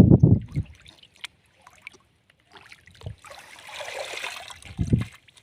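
Water splashing and trickling, with a heavy low slosh at the start and another near the end, and a stretch of running or pouring water in between.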